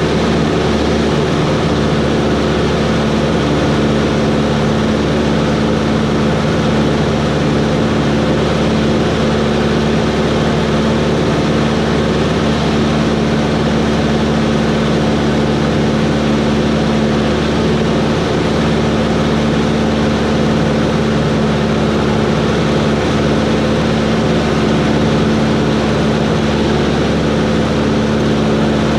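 Cessna 140's engine and propeller running at a steady, unchanging speed, a loud continuous drone.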